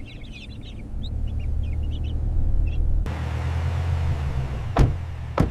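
Low, steady rumble of a car on the move with ducklings peeping faintly over it. About three seconds in the sound changes abruptly to an even hiss, and two sharp knocks follow near the end.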